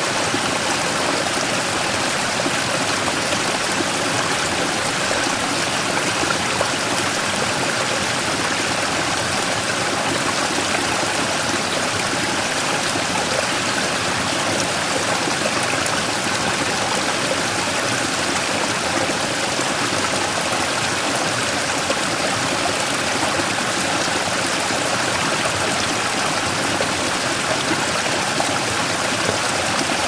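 Mountain stream rushing and splashing over a large rock in a small waterfall: a steady, even water noise.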